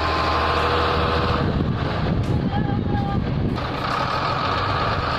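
A heavy truck's diesel engine running steadily, with a high steady tone held over it near the start and again from about three and a half seconds in.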